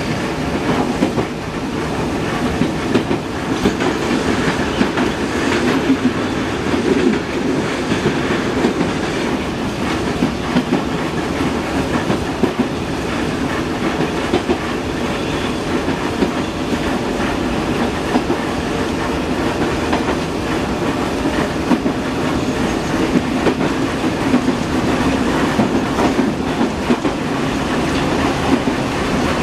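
Moscow metro train running, heard from inside the carriage: a steady rumble of wheels on rails, broken by frequent short clacks.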